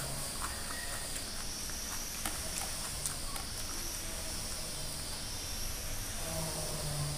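Close-up eating sounds: chewing and small wet mouth clicks of someone eating rice and curry by hand, over a steady hiss. Near the end, fingers mix soft rice on a steel plate.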